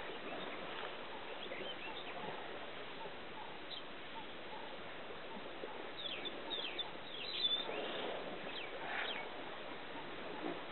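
Wild birds chirping in short, quick calls over a steady outdoor hiss. The chirps cluster in the second half.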